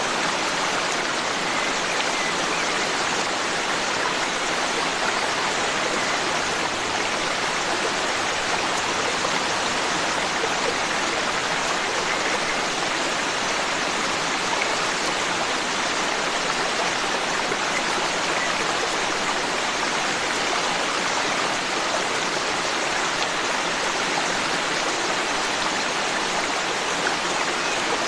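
Forest stream flowing steadily, an even, unbroken sound of running water.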